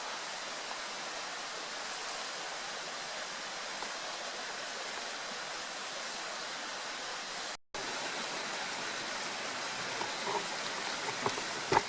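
Steady rush of running water from a small stream, broken by a brief cut-out about two-thirds of the way through.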